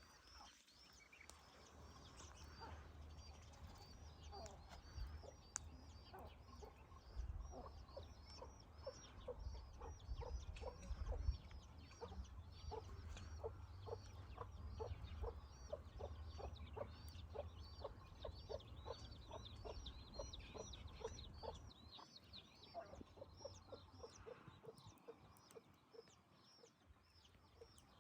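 Chicken clucking faintly in a steady run of about two clucks a second, with high chirping calls repeating over it; it fades out a few seconds before the end. A low rumble lies beneath until then.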